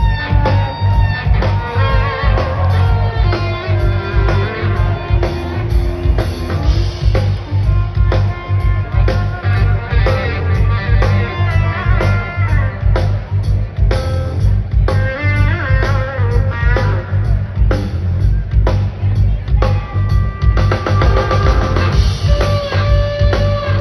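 A live rock band playing an instrumental jam: an electric guitar lead with sliding, bending notes over a steady drum kit and bass.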